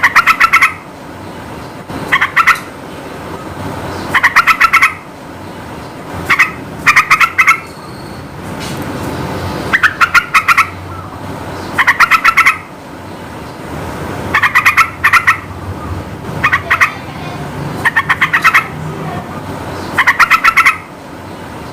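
Yellow-vented bulbul singing short, quick bubbly phrases, repeated about every two seconds, over a steady low background rumble.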